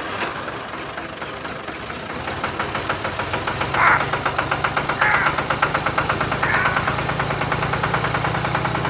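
An engine running steadily with a fast, even knock. Its low note strengthens a few seconds in, and short higher-pitched sounds come through now and then.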